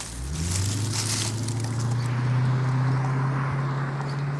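A motor running with a steady low hum that rises in pitch in the first half-second and then holds steady, with a noisy whir above it.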